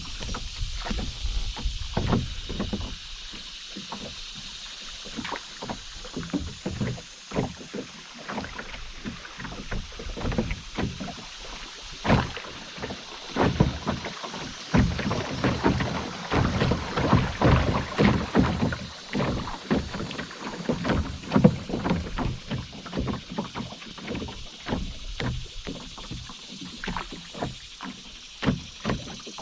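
Canoe on a moving river: water splashing and dripping irregularly against the hull and paddle, busiest through the middle, over a steady high hiss.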